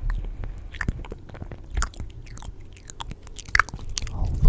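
Close-miked ASMR mouth sounds: irregular wet clicks and smacks, several each second, with a sharper one about three and a half seconds in.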